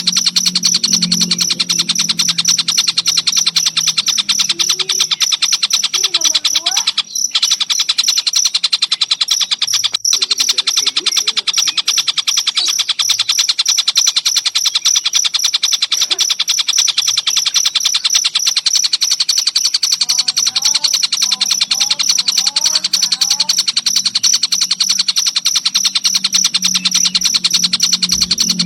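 Crickets chirping in a fast, even, high-pitched pulse, with short gliding calls of a tengkek buto (a kingfisher) over them, from a masteran song-training recording. The sound cuts out briefly twice, about a third of the way in.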